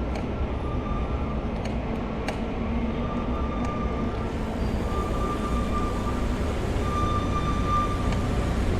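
City traffic rumble and wind noise heard from a moving bicycle, with a steady high-pitched tone that comes and goes in stretches of about a second, strongest near the end.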